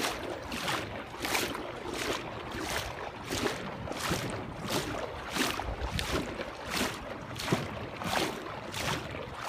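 Legs wading through thigh-deep floodwater: a rhythmic sloshing splash with each stride, about one and a half strides a second.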